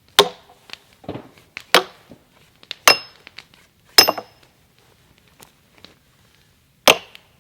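Sledgehammer striking a steel splitting wedge driven into a chestnut log, five heavy blows at uneven intervals, some with a short metallic ring, as the log is split lengthwise into fence stakes.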